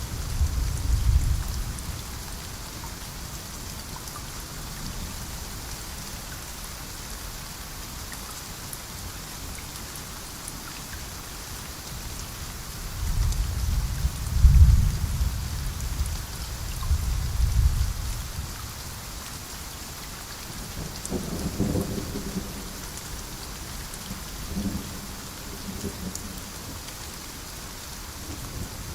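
Steady heavy rain with thunder rumbling: a low rumble at the start, a louder run of rolls through the middle peaking about halfway, and fainter rumbles in the last third.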